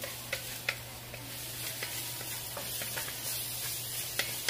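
Onions, garlic and ginger sizzling in an enameled Dutch oven while a wooden spoon stirs them: a steady frying hiss with a few light clicks of the spoon against the pot.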